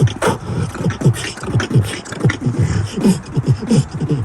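A beatboxer's vocal beat in a fast, even rhythm: bass kicks that drop in pitch, about three a second, with sharp hi-hat and snare clicks between them.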